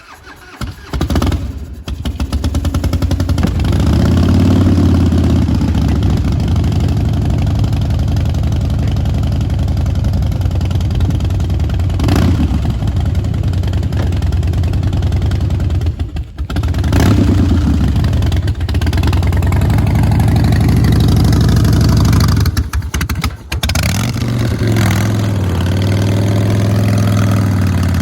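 Harley-Davidson motorcycle engine starting and running, revved up and down, with a few brief drops in sound along the way.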